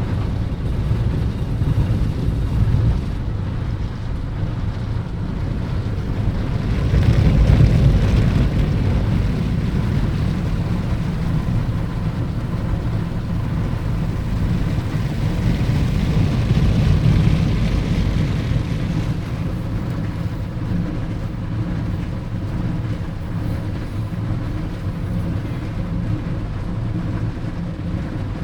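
Automatic car wash machinery running over a car: a steady rumbling wash noise that swells twice, about a third of the way in and again past the middle.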